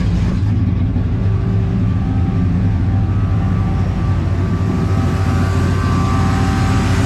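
Aluminum-headed 347 stroker small-block V8 in an old farm truck idling steadily with a choppy, lumpy cammed idle, the "chopping down trees" sound.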